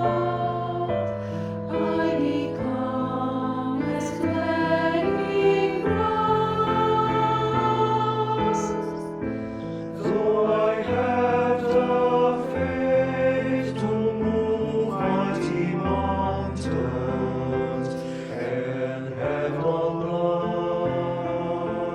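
A choir singing in harmony. Several voices hold chords that change every second or two, with sung consonants cutting through here and there.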